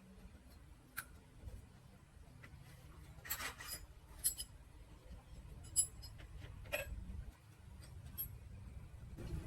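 Hand work on small metal motorbike parts: scattered clinks, scrapes and rubbing of tools and parts, with a couple of short ringing metal taps, over a low steady hum.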